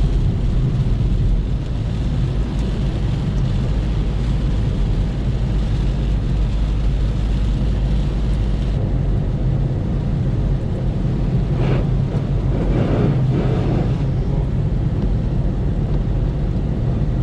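Volkswagen Polo diesel on the move: a steady low engine and road rumble, with a few brief higher sounds about twelve seconds in.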